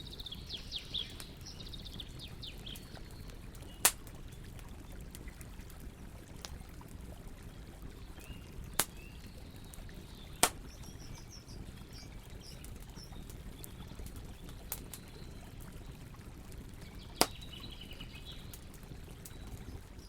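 Campfire burning with a steady low rush, broken by four sharp pops of crackling wood. Birds chirp now and then in the background.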